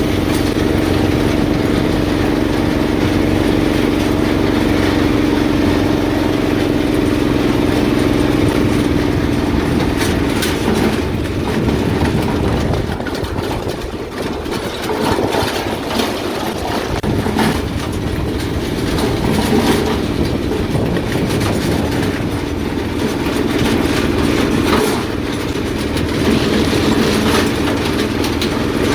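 Honda K24 four-cylinder engine in a K-swapped VW Corrado running as the car is driven. The engine note is steady for about the first ten seconds, then turns uneven, with repeated clunks and rattles.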